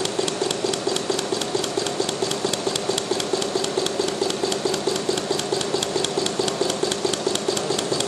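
Home-built alpha-type Stirling engine with a Ross yoke mechanism running steadily. It ticks in a fast, even rhythm over a steady hum.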